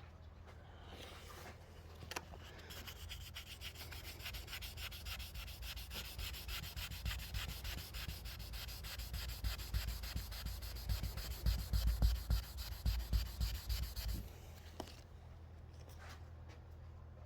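1500-grit sandpaper rubbed by hand back and forth over car paintwork in quick, even strokes, flatting out bird-dropping etching in the paint. The strokes start a couple of seconds in, grow louder, and stop a few seconds before the end.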